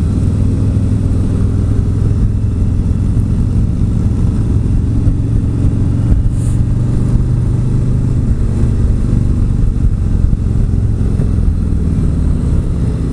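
The V-twin engine of a Harley-Davidson Street Glide Special running steadily at cruising speed, heard from the rider's seat.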